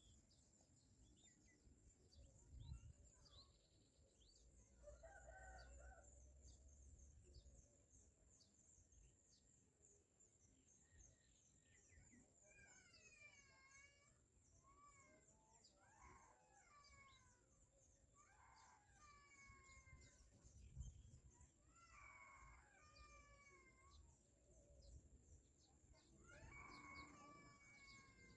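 Faint birdsong with many short, high chirps throughout, and a distant rooster crowing again and again through the second half.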